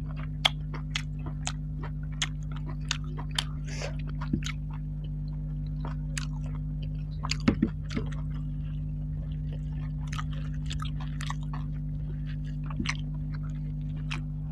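Close-up chewing and wet mouth clicks of someone eating curried meat and rice by hand, in scattered short clicks with a louder cluster about halfway through, over a steady low hum.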